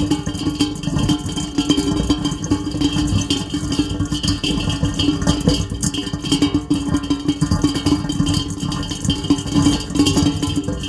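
Heavy rain falling in a dense, steady patter, with a steady low hum underneath.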